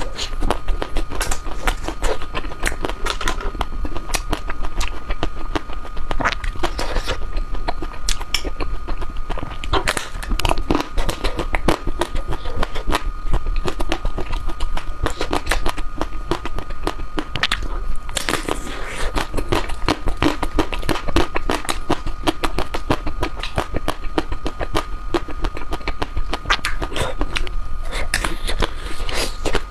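Close-up eating sounds of dark chocolate ice cream: a dense run of small irregular clicks, crackles and bites. A steady high tone and a low hum run beneath.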